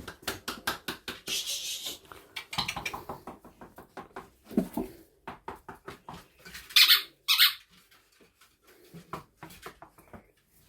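Staffordshire bull terrier puppies chewing and tugging at a shoe: a run of quick taps, scuffles and small squeaks, with two loud hissing bursts about seven seconds in.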